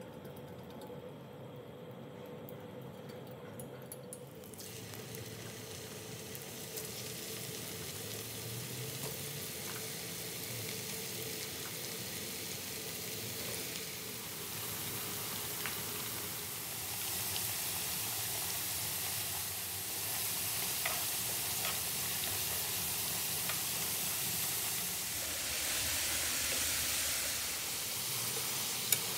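Potato strips shallow-frying in hot oil in a nonstick pan, sizzling. The sizzle sets in about four seconds in and grows louder and fuller, with a couple of sharp clicks near the end.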